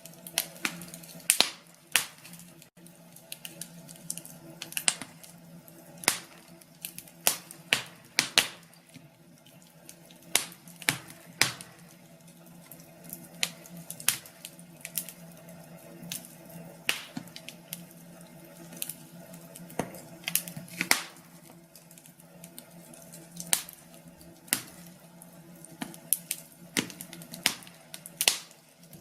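Wood fire crackling in a fireplace: irregular sharp pops and snaps, a few every second or two, over a low steady hum.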